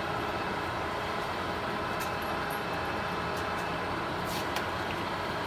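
Summit engine lathe running under power, its spindle turning and the cross slide power-feeding in: a steady mechanical running sound with a few faint clicks.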